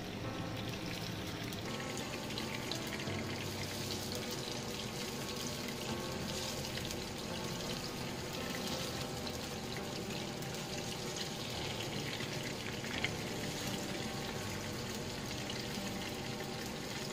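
Fish pieces sizzling and crackling as they fry in shallow oil in a wok, over background music. One brief sharp tap about thirteen seconds in.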